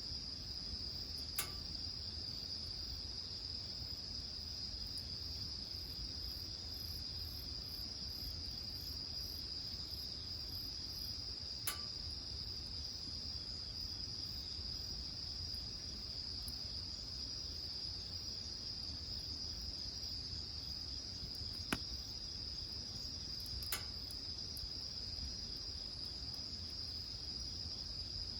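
Insects trilling in one steady, unbroken high note, with four sharp, sparse pops from wood burning in the fire, the loudest about three quarters of the way through.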